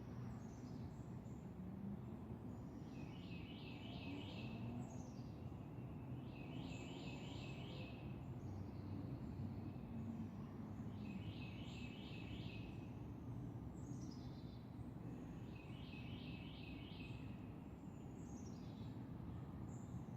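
Songbirds singing over a steady low outdoor rumble. One bird repeats a short phrase of four or five quick notes every few seconds, and others give high, quick down-slurred calls in between.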